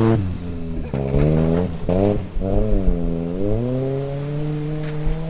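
Car engine revving hard, its pitch dropping and climbing several times, then holding a steady high rev for the last couple of seconds.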